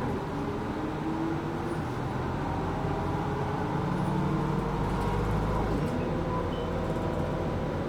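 Interior ride noise of an Isuzu Erga Mio non-step bus: the four-cylinder diesel runs under a steady rumble, with a faint whine that slowly rises in pitch as the bus gathers speed.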